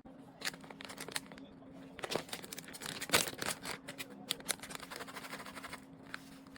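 Irregular handling noise: short clicks, rustling and crinkling, busiest in the middle, over a steady low hum.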